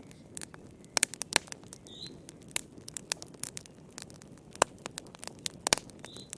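Wood campfire crackling: irregular sharp pops and snaps, a few louder ones standing out, over a soft low hiss of burning.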